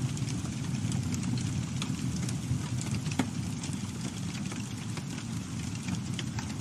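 Campfire burning: a steady low rumble of flames with frequent sharp crackles and pops from the burning wood, one louder pop about three seconds in.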